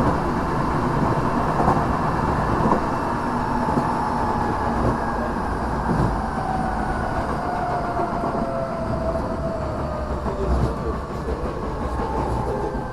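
Tokyo Metro 6000 series electric train running, heard inside the car: steady rumble and wheel noise on the rails, with the whine of its Mitsubishi IGBT-VVVF inverter and traction motors falling in pitch from about six seconds in as the train slows.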